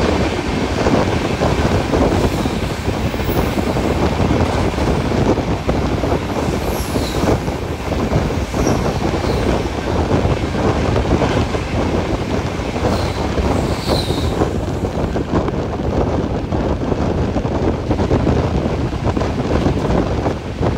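Humsafar Express passenger train running at speed: a steady rumble and rattle of the coach on the rails, with a few brief high-pitched wheel squeals.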